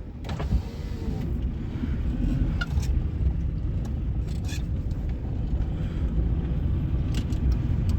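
Cabin of a 1998 Suzuki Baleno on the move: a steady low road and engine rumble, with a few short clicks and creaks scattered through it. These are the kind of interior creak and rattle being hunted in the car.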